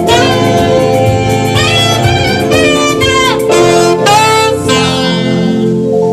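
Saxophone playing a gospel praise melody with sliding, bending notes over a band with bass and keyboard backing. The saxophone line fades near the end, leaving held keyboard chords.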